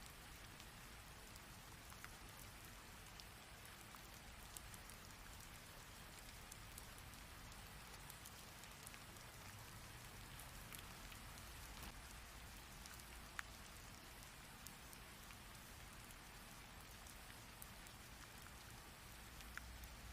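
Faint, steady rain hiss with scattered sharp ticks of individual drops hitting a surface; one tick about two-thirds of the way through stands out louder.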